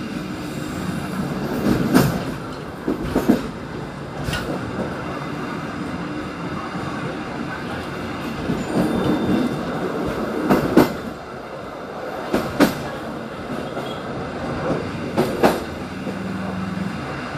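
Passenger train running on the track, heard from the rear of the train: a steady rumble of wheels on rail with sharp, irregularly spaced clacks as the wheels cross rail joints and points.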